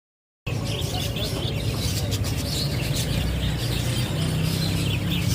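Small cage birds chirping and twittering together, over a steady low hum.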